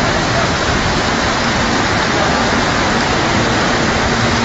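Heavy rain and running water: a steady, dense rush of water noise with no breaks.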